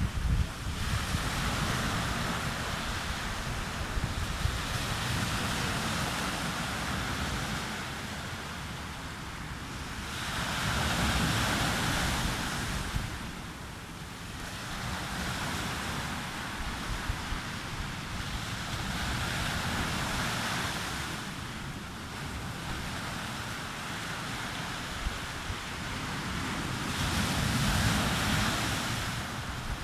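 Sea waves breaking and washing up a beach, swelling and fading about every eight seconds, with wind rumbling on the microphone.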